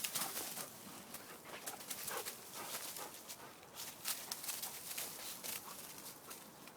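Dog digging in sand with its paws: a run of quick, irregular scrapes and sprays of sand.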